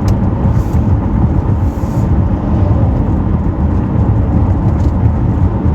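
Steady low road rumble of a car being driven, with no distinct events.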